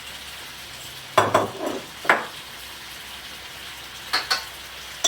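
Seafood sizzling in a pan on the stove, with a utensil stirring and knocking against the pan three times: about a second in, about two seconds in, and about four seconds in.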